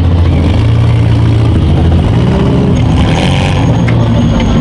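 Stripped-down small derby cars' engines running and revving loudly, the pitch rising and falling, with a couple of light knocks in the second half.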